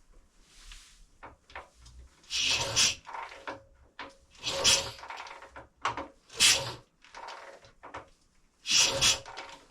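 1928 Velocette KNS 350cc single-cylinder overhead-cam engine turned over on the kickstart with the spark plug out, about one loud kick-through every two seconds, four in all, with clunks between. The engine is being spun without firing to prime the oil around it.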